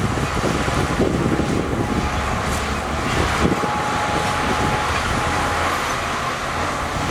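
Heavy diesel earthmoving machinery running under load, with a low rumble, a steady high whine and a few clanks.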